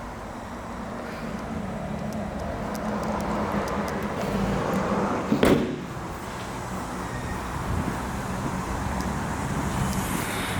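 Nissan Qashqai's engine running steadily, with a single loud thump about five and a half seconds in.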